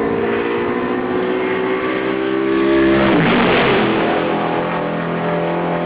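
Historic sports racing cars accelerating out of a turn onto the straight at full throttle. One car passes close about halfway through, loudest as it goes by, its engine note falling sharply as it passes, while other engines keep running at a steady pitch.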